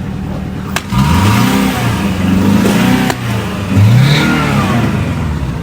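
Car engine revved repeatedly while parked, its pitch rising and falling several times over an idle, with a sharp click just before the first rev.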